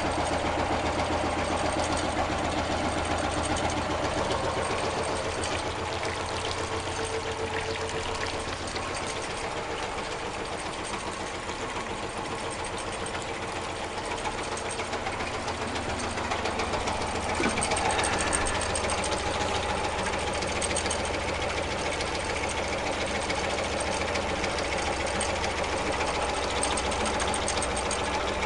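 Home-made four-cylinder double-acting alpha Stirling engine running, with a fast, even mechanical clatter. It dips a little in the middle and swells briefly about two-thirds of the way through.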